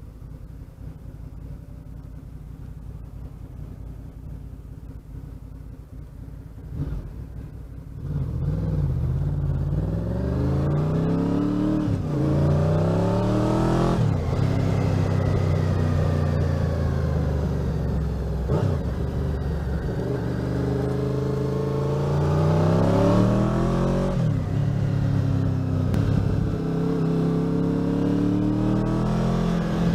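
1988 Honda VFR750's V4 engine idling quietly, then about eight seconds in the bike pulls away and the engine note rises through the gears, with a short dip at each gear change. It eases off in the middle, falling in pitch, then accelerates hard twice more.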